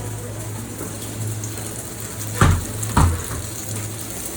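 Food sizzling in a pan in a restaurant kitchen over a steady low hum, with two knocks of cookware about half a second apart near the middle.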